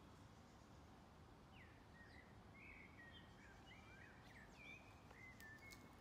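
A songbird singing faintly: a run of short chirps and gliding whistles starting about a second and a half in and lasting until near the end, over low background noise.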